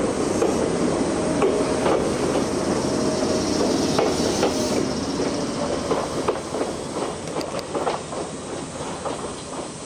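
Train running along the track, its wheels clattering with many sharp clicks over the rails, fading over the last few seconds.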